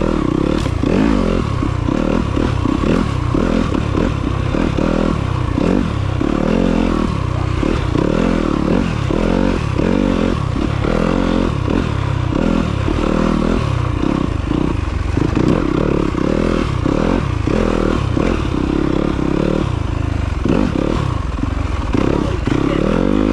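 Off-road motorcycle engine ridden along a rough trail, its pitch rising and falling constantly with the throttle.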